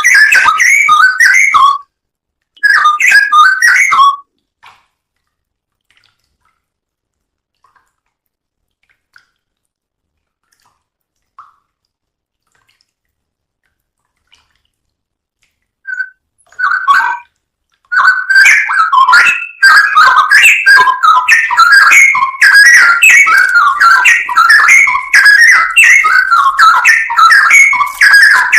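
Songbird song, loud rapid warbling and chirping. Two short phrases open, then about twelve seconds of near silence with a few faint notes, then continuous dense song from about eighteen seconds in.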